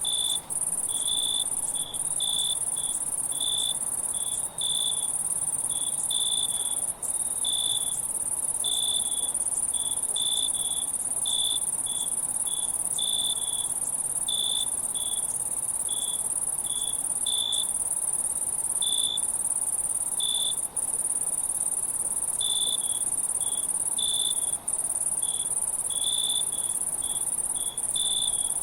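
Crickets chirping in short, irregular pulses over a steady, high-pitched insect drone. The sound dips out for an instant a few times.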